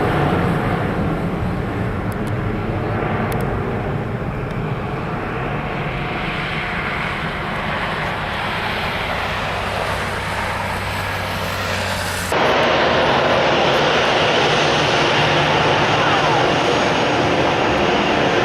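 Jet airliner's turbofan engines running with a steady, loud rushing noise; about 12 seconds in the sound cuts abruptly to a louder stretch of jet engine noise from another clip.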